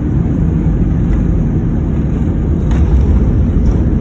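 Steady low rumble of an Airbus A321's engines and airflow, heard inside the passenger cabin during the landing, with one faint click near the end.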